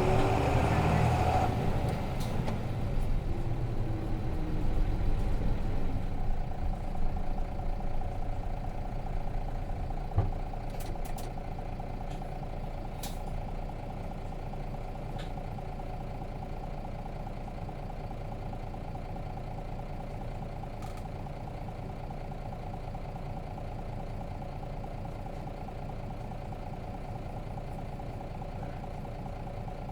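Nissan Diesel RM bus's FE6 six-cylinder diesel heard from inside the cabin, running down as the bus slows. A short thump comes about ten seconds in, and the engine then idles steadily.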